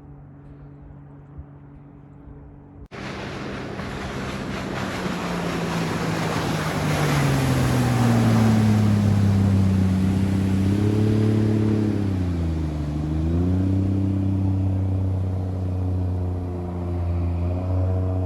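A Mercedes OM606 inline-six diesel driving a speedboat at high speed, with a strong rush of wind and water. The first few seconds are a quieter, muffled engine hum, then it cuts abruptly to the loud run. The engine note sinks in pitch, dips briefly and steadies.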